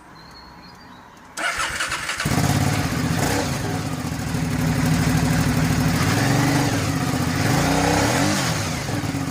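Aprilia Dorsoduro V-twin motorcycle with a modified exhaust being started: the starter cranks briefly, the engine catches about two seconds in, and it runs at idle with a short rev up and down near the end.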